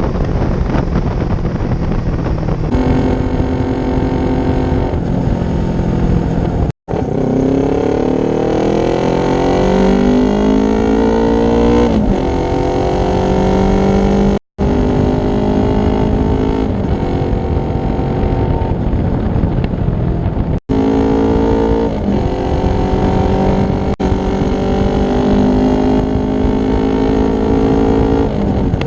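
Yamaha YZF-R3 parallel-twin engine running through an aftermarket Akrapovic exhaust. It holds steady revs, then climbs in pitch over several seconds before dropping back, with a few abrupt silent gaps where the recording is cut.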